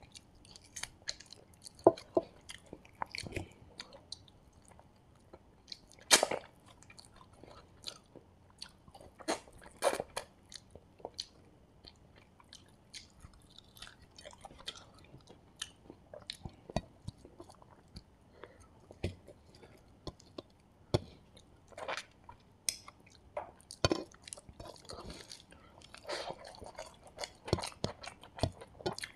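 Close-miked chewing of a mouthful of rice and fried chicken eaten by hand, with irregular sharp mouth clicks.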